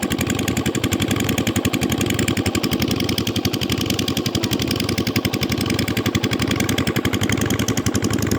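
Engine running steadily with a rapid, even chugging beat.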